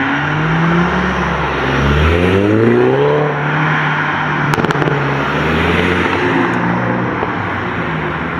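Car engine accelerating hard, its pitch climbing in two pulls and then holding steady, with a few sharp cracks about halfway through.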